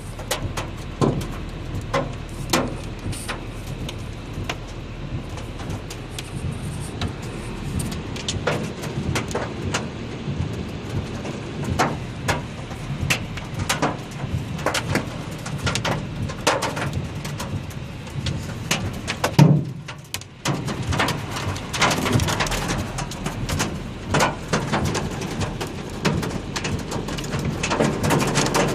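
Hailstorm: hailstones striking hard surfaces in many irregular sharp knocks over a steady hiss of heavy rain, with one louder knock a little before twenty seconds in.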